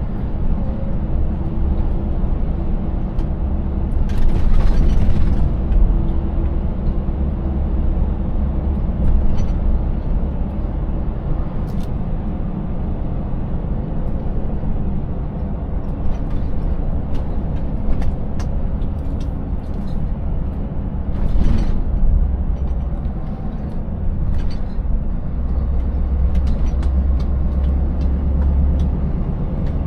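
Scania 590S 16-litre V8 truck engine and road noise, a steady low rumble while driving on a rough road, with scattered knocks and rattles and a few short hisses.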